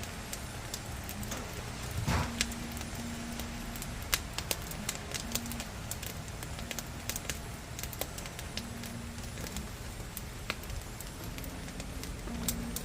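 Firewood burning in the firebox under a cast-iron cauldron, crackling with irregular sharp pops over a steady low rush, with a louder burst of pops about two seconds in.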